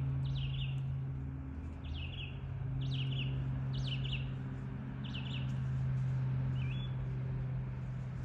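A songbird calling in short, repeated chirps that fall in pitch, about one a second, over a steady low hum.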